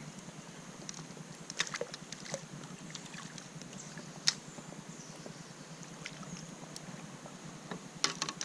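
Scattered light clicks and taps, with a quick cluster of them near the end, over a steady low background of wind and water around the kayak.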